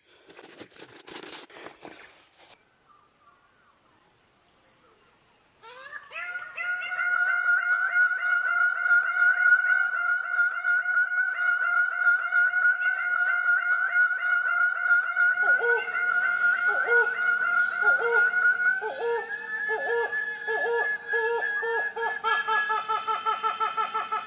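Bornean tropical rainforest animal calls. About six seconds in, a loud call sets in with a brief upward slide, then holds one pitch with a fast pulse. About fifteen seconds in, a second caller joins with a lower note repeated about twice a second.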